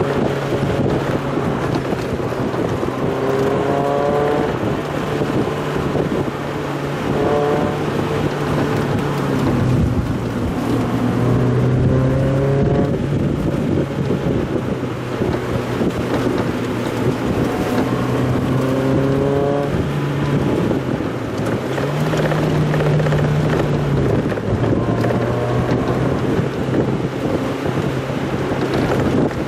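Mazda Roadster engine heard from inside the car under way, its revs climbing again and again and dropping back with each change of pace, over steady wind and road noise.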